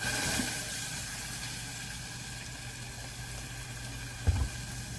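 Barbecue sauce sizzling in a hot pot on the stove, a steady hiss that slowly fades. A short thud comes near the end.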